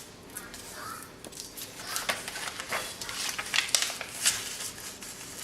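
A sheet of paper being folded and creased by hand: scattered crisp rustles and crinkles at irregular intervals.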